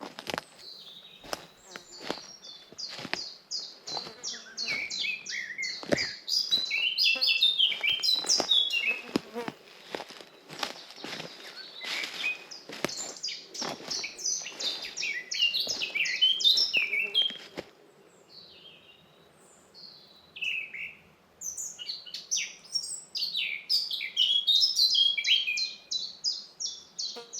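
Forest birds singing in quick runs of high chirping notes, with footsteps crunching along a forest path at a slow walking pace for roughly the first two-thirds; the steps stop and only the birdsong carries on.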